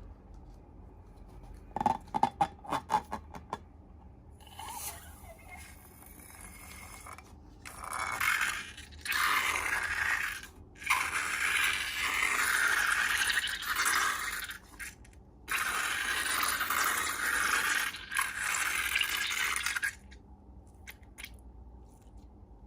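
Slime-and-balloon handling sounds: a quick run of sharp clicks, then several long scraping, hissing stretches that start and stop abruptly, with short pauses between them.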